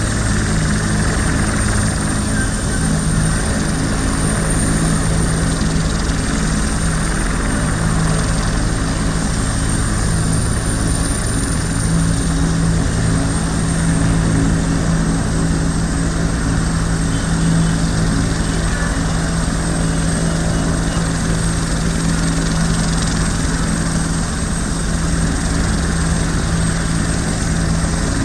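Helicopter running steadily, a constant low drone with a thin high whine over it.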